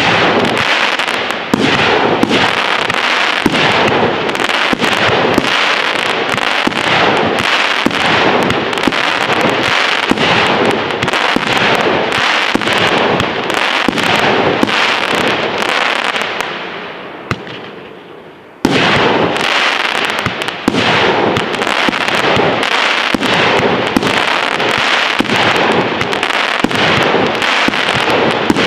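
Fireworks display: a dense, continuous barrage of bangs and crackling. About two-thirds of the way through it thins and fades for a couple of seconds, then starts again suddenly at full strength.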